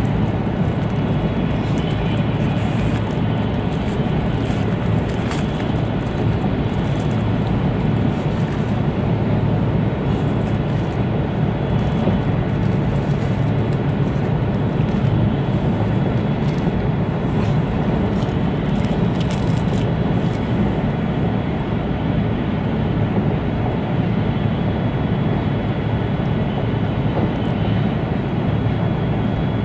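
Cabin noise inside an E2-series Shinkansen passenger car on the move: a steady low rumble from the running gear, with light scattered ticking in the upper range through the first two-thirds.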